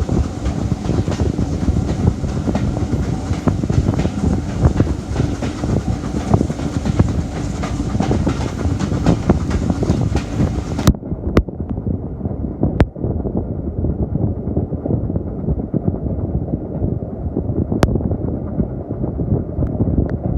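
Heritage railway train running along the line, a steady rumble with repeated sharp clicks of the wheels on the rails. About halfway through the sound suddenly turns muffled, losing its high end while the rumble goes on.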